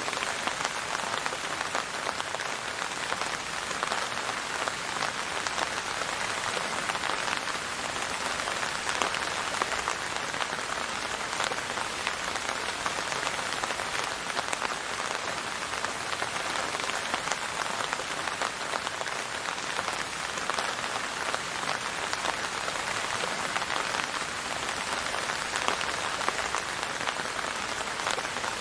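Steady rain falling on a surface, a dense even patter of drops that never lets up.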